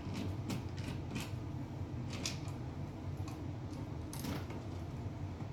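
Scattered light clicks and scrapes of hands and tools working at an electrical switch box, over a steady low hum.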